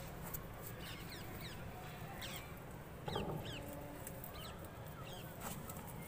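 Small birds chirping: many short, quick downward chirps, faint, over a low background rumble. A brief louder, lower sound with a held tone comes about three seconds in.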